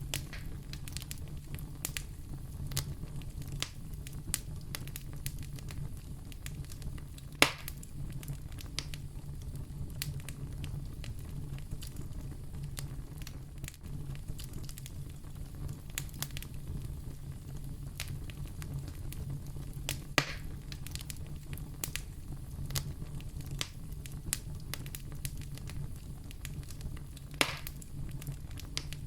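Wood fire burning in a fireplace: a steady low rumble of flames with constant small crackles and three loud pops, about 7 s in, 20 s in and near the end.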